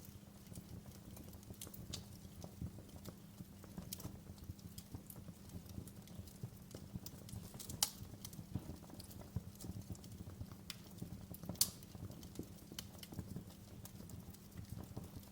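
Wood fire crackling in a fireplace: a steady low rumble of flames with irregular snaps and pops, two of them sharper, about 8 and 12 seconds in.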